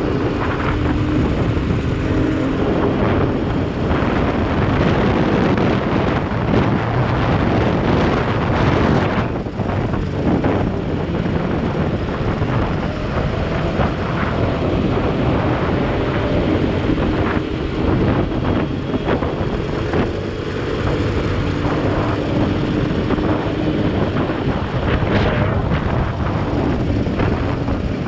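Motorcycle engine running while riding, with wind rushing over the microphone and road noise. The engine's hum wavers up and down.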